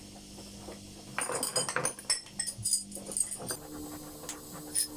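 Small steel parts clinking and rattling against each other and a hard surface, in a run of sharp clinks that starts about a second in, over a faint steady hum.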